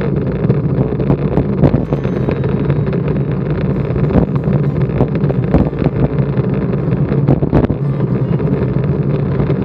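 Steady low rumble of a vehicle on the move, with wind buffeting the microphone and frequent small clicks and knocks from the mount or the road surface.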